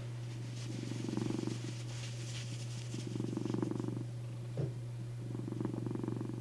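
Domestic cat purring on a lap, the purr swelling in slow waves about every two seconds with each breath, over a steady low hum. One short blip comes a little past halfway.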